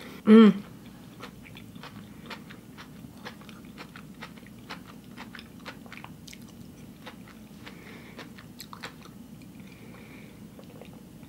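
Close-up chewing of soft raw vegan zucchini-noodle lasagna: many small, wet mouth clicks, after a short hummed "mm" right at the start. There are a couple of faint sips through a straw near the end.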